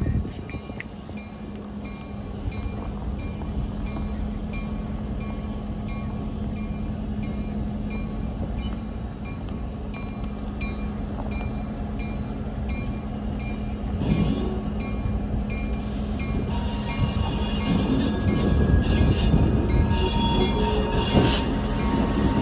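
Diesel locomotive running as it slowly approaches with a passenger train: a steady low engine hum, with a faint high ting repeating about twice a second. About fourteen seconds in, shrill wheel squeal from the train's wheels on the rails sets in and grows louder as the train nears.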